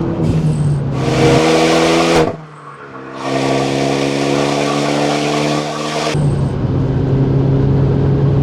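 Renault Mégane III RS's 2-litre turbo four-cylinder (F4RT) pulling hard under acceleration with a loud rushing noise over the engine note, cut briefly about two seconds in as the throttle lifts for a gear change, then pulling again for about three seconds before settling back to a steadier, quieter run.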